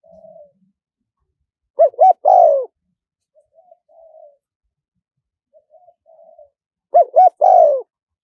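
Spotted dove cooing: a few soft, low notes, then a loud three-note coo ending in a longer falling note, heard twice about five seconds apart. The cooing is a decoy call used to lure wild spotted doves.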